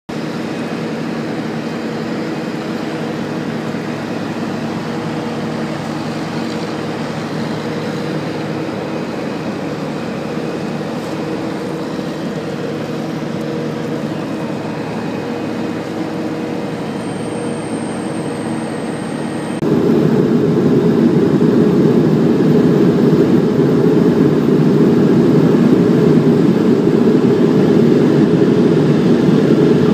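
Cabin drone of a Bombardier Dash 8 turboprop airliner in flight: a steady hum of propeller and engine tones. About twenty seconds in, it suddenly gets louder and rougher.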